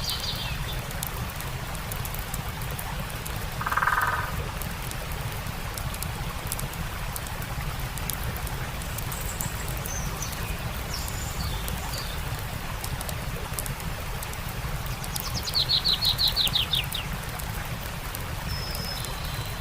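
Steady rush of a stream with faint crackling of a campfire, and birds calling: a short low call about four seconds in, scattered small chirps, and a rapid trill of about eight notes later on.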